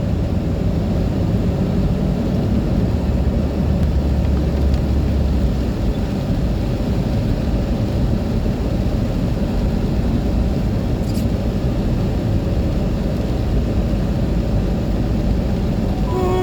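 Heavy rain falling, a steady low rushing noise, with a deeper rumble underneath during the first five seconds or so.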